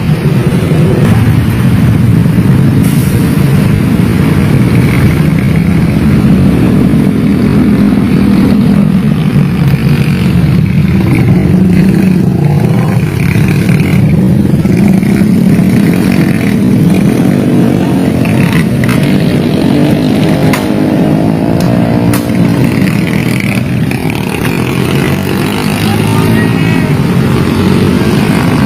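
Motorcycle engines with loud aftermarket racing exhausts running steadily.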